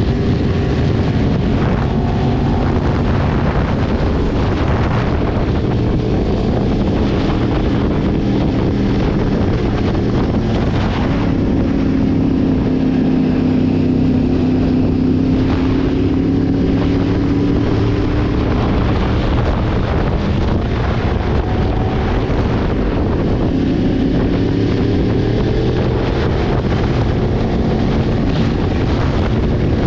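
Yamaha sport motorcycle engine running under way, its pitch slowly rising and falling with throttle, under heavy wind noise on the microphone.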